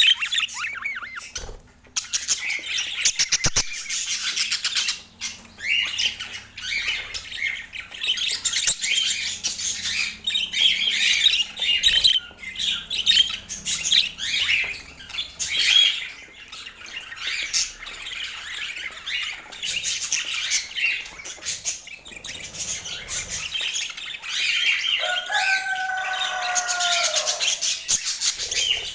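Budgerigars chattering, with rapid high chirps, squawks and warbles running almost without a break. Near the end comes one longer, lower held call that dips slightly in pitch.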